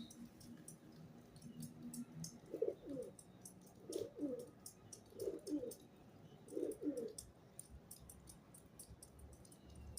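A bird of the pigeon family cooing: four low coos about a second and a half apart, each a doubled note, with faint scattered ticks in the background.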